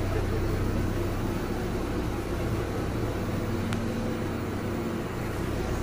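Steady low hum inside a slowly moving passenger train coach, with one faint click about three and a half seconds in.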